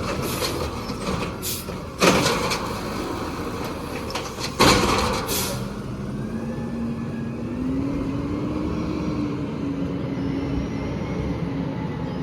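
Peterbilt 320 garbage truck: two sharp air-brake hisses in the first half, then its engine revs up, rising in pitch for a few seconds before easing off.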